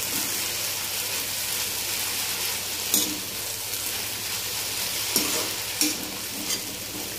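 Sago pearls frying with potato and peanuts in a steel kadai, sizzling steadily while being stirred with a perforated steel spoon, with a few sharp clicks of the spoon against the pan.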